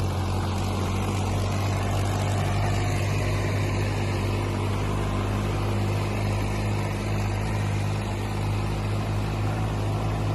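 Two tractors' three-cylinder diesel engines, a New Holland 3630 and a Swaraj 855 FE, running together in a steady drone as they race in high-range first gear.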